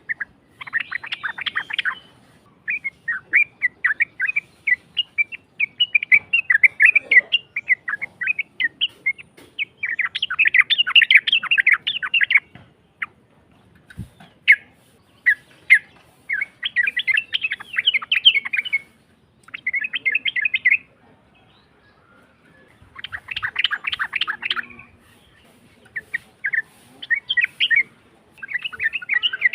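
Yellow-vented bulbul song: rough, rapid chattering phrases of one to three seconds with short pauses between them, the harsh, long 'uplik' style used as a lure recording to set other bulbuls singing.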